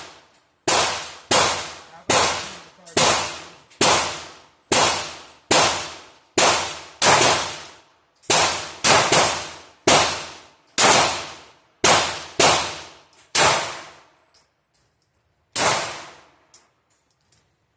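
A string of handgun shots at a range, fired one after another about every half second to a second, each with a short ringing echo. There is a last shot a couple of seconds after the rest, then faint small clicks.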